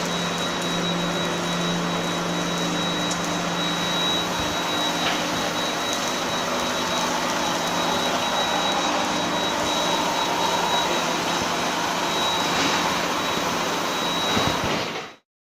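Steady machinery noise from an induction-heating hot rolling line: a continuous broad rush with a low hum and a thin, steady high-pitched tone. It cuts off suddenly near the end.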